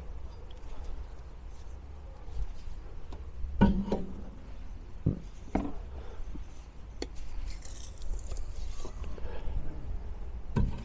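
A few separate knocks and clinks of metal parts and tools being handled while a car's rear shock absorber is put together, the loudest about three and a half seconds in.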